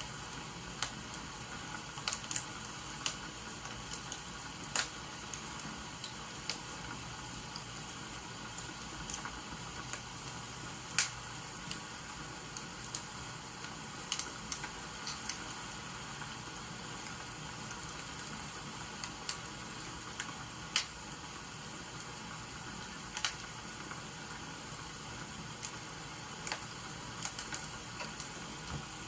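Wood fire crackling, with sharp irregular pops now and then, over a steady hiss of rain.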